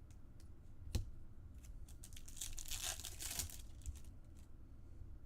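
A trading card pack's wrapper being torn open and crinkled, with a sharp click about a second in before the tear.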